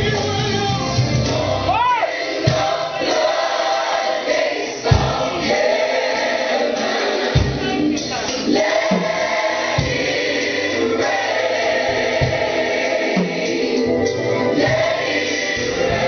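Gospel choir singing over a live band, with low thuds recurring about every two and a half seconds.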